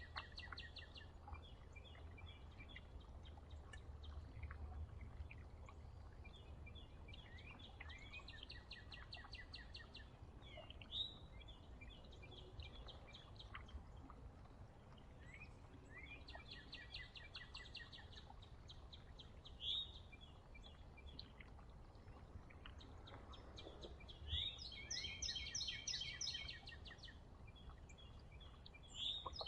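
A songbird repeating the same fast trilled song phrase about every eight seconds, with single sharp call notes in between, over a low steady outdoor rumble.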